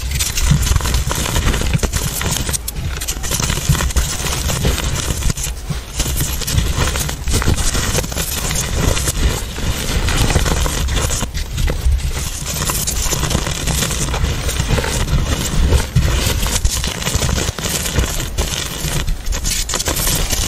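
Chalk being crunched and crumbled into powder: a dense, continuous crackling crunch full of small clicks.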